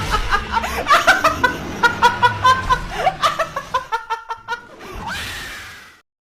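People laughing hard in quick, repeated bursts, followed by a short fading hiss with a falling tone about five seconds in.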